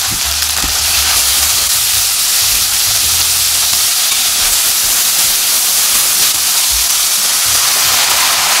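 Green and red peppers and scallions frying in hot oil in a wok, a loud, steady sizzle.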